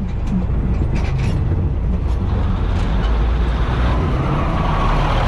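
Diesel railcar train running slowly on the track, a steady low engine rumble with metal creaks and clicks, and a thin squeal from the wheels near the end.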